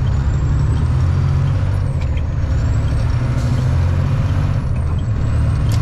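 Semi-truck's diesel engine running steadily, a deep drone heard from inside the cab, with a faint high whistle that rises and falls and a couple of brief clicks.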